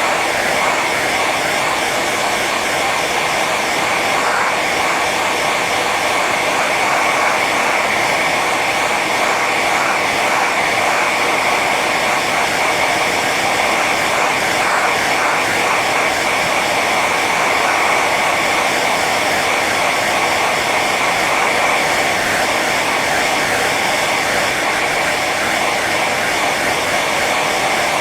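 Hair dryer running steadily on its high setting: a continuous rush of air with a steady whine from the motor.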